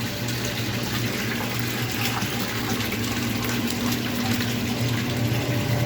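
Washing machine waste water gushing from the drain hose into a drum, with the steady low hum of the machine's drain pump under the rush of water.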